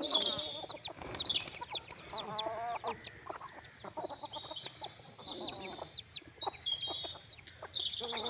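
Chickens clucking and calling, with a few longer pitched calls among many quick, high, falling chirps.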